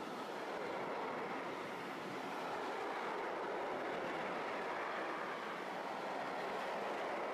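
Covered freight wagons of a passing freight train rolling by close at hand: a steady rush of wheels on the rails at an even level.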